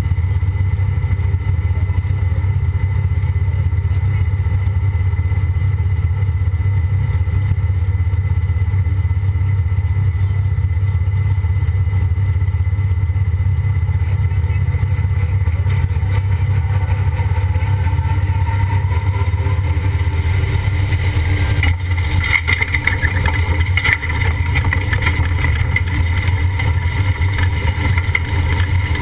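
Engine of the 'Ford 1' pulling tractor running loud and steady under load during a pull. From about three-quarters of the way through, a rattling hiss joins in higher up over the engine.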